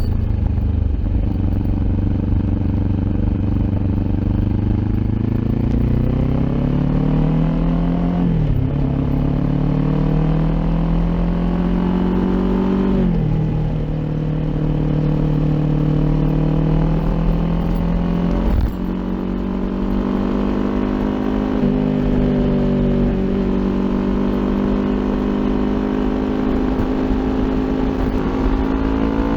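Kawasaki Ninja 400 parallel-twin engine through an Akrapovic exhaust, pulling under acceleration. The note climbs and is cut by quick upshifts, with the revs dropping sharply about 8, 13 and 18 seconds in, and then holds a steady cruising note.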